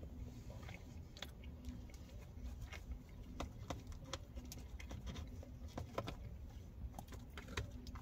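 Close-up chewing of soft biscuits and gravy, with a plastic fork scraping and tapping in a plastic takeout container. It makes scattered sharp clicks over a steady low rumble.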